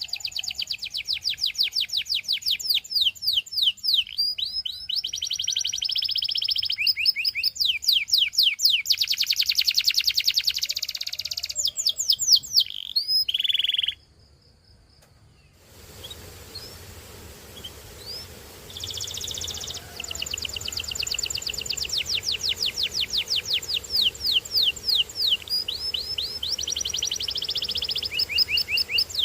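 Domestic canary singing: fast trills made of quickly repeated falling notes, strung into runs with some held, buzzy passages. The song breaks off about halfway through, then resumes, softer at first.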